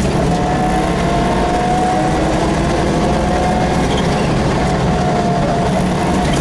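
Rally car engine heard from inside the cabin, running hard at a nearly steady pitch, with road and drivetrain noise throughout.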